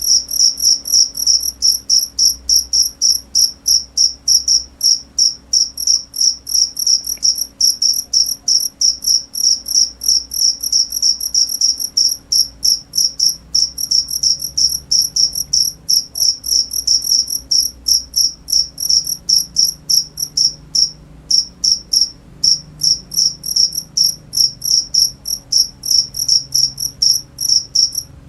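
A cricket chirping loudly and steadily, with high-pitched, evenly spaced chirps about three a second and a brief pause about three-quarters of the way through.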